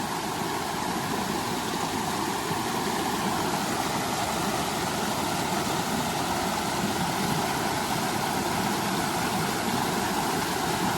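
Steady rushing of water from a small waterfall on a creek, an even, unbroken roar of noise.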